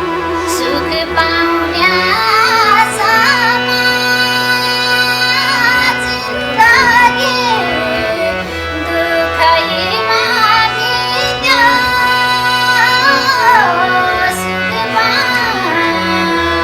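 Live Nepali song: a high female voice sings an ornamented, gliding melody over steady band accompaniment. It enters about two seconds in, after a vibrato instrumental line.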